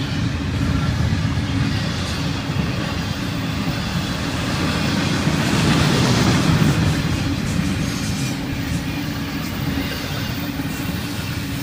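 Double-stack intermodal container cars of a freight train rolling past: a steady rumble of steel wheels on rail that swells about six seconds in, with faint clicks over the rail joints.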